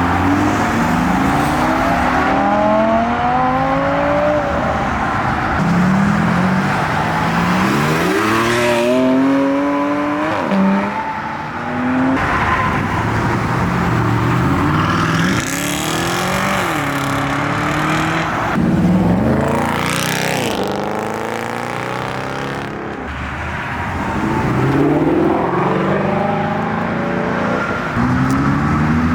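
Performance car engines revving hard as cars accelerate away one after another. Each engine note climbs in pitch, drops at a gear change and climbs again, with several such pulls through the stretch.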